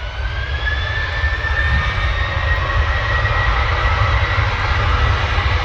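Jet engines of a Ryanair Boeing 737 spooling up for take-off: a rising whine over a deep rumble, growing steadily louder.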